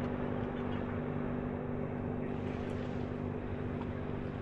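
Boat motor running steadily, an even hum at a constant pitch with a noisy wash over it.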